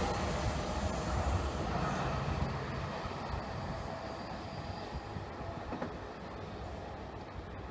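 Seibu Railway 30000 series electric train running away along the track, its running noise fading steadily as it recedes.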